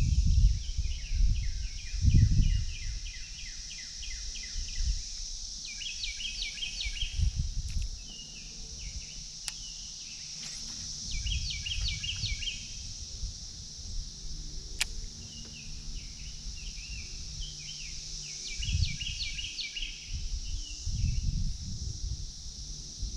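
A songbird singing repeated phrases of quick, stepped notes every few seconds over a steady high hiss. Low rumbles come and go, and there are two faint sharp clicks in the middle.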